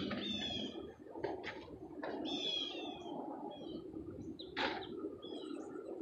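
A songbird singing short phrases of several falling high whistled notes, one at the start and another about two seconds in, over a low rustle of the phone being handled. A single sharp knock about two-thirds of the way through.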